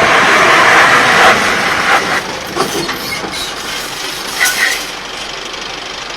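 Heavy truck during a brake test: a loud rushing noise that fades over the first two seconds. A few short squeals and rattles follow around the middle, then it settles to a steady lower hum.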